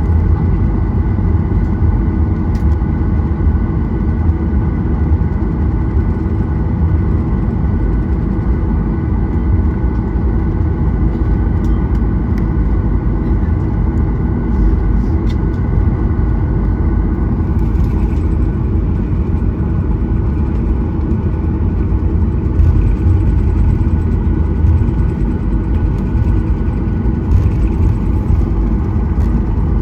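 Boeing 737-800's CFM56-7B jet engines running steadily, heard from inside the passenger cabin as a deep rumble with a few steady whining tones over it.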